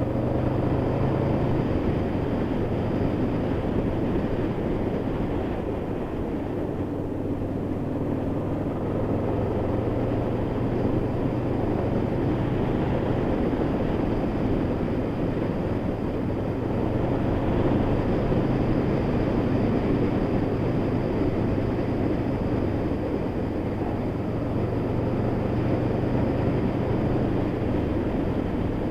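Honda VFR800's V4 engine running under way at a fairly steady speed, its note shifting slightly a few times, over a constant rush of wind noise.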